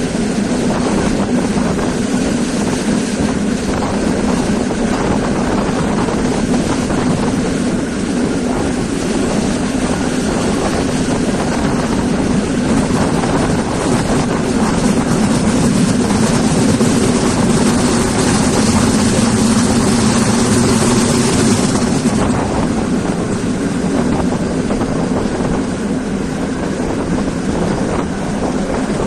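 Passenger train running on rails, heard from an open carriage window: a steady rumble of wheels and track noise mixed with wind on the microphone. It grows hissier and a little louder for several seconds past the middle.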